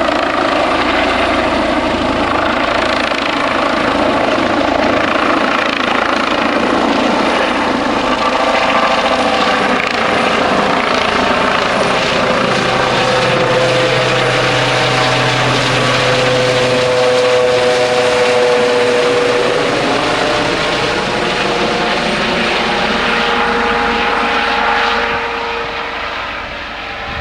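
Eurocopter EC135 twin-turbine police helicopter flying, with a steady rotor and turbine noise. Its whining tones dip and then rise again in pitch through the middle, and the sound fades away near the end.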